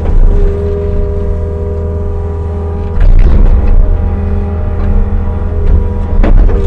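Kobelco SK55 mini excavator's diesel engine running steadily under hydraulic load while moving dirt, with louder surges and a couple of knocks about three seconds in and again near the end.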